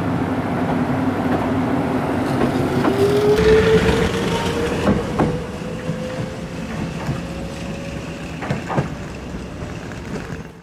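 Electric train pulling away: a motor whine rises in pitch and then holds steady over a rumble, with a few clacks of the wheels over rail joints, the whole sound slowly fading before it cuts off.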